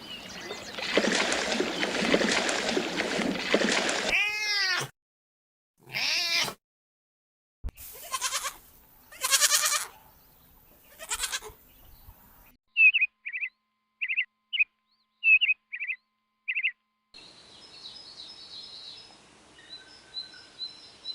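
Goats or sheep bleating: first a dense, overlapping chorus of many calls, then several single bleats with a rising-and-falling pitch. This is followed by a run of about eight short, high chirps in quick succession, then faint background noise with a few thin high calls.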